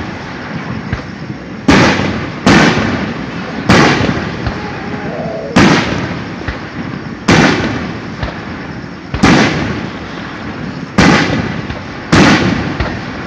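Japanese aerial firework shells bursting one after another: about nine sharp booms at irregular gaps of one to two seconds, each fading out in a trailing rumble.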